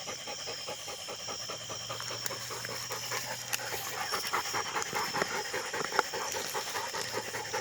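Dog panting quickly and steadily, short breaths in an even run.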